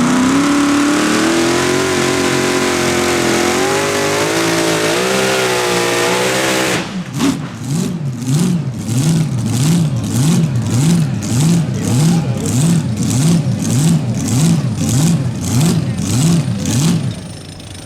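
Pulling vehicle's engine running hard, its pitch climbing steadily for several seconds. About seven seconds in it switches suddenly to a rhythmic rise and fall of revs, about twice a second, which stops shortly before the end.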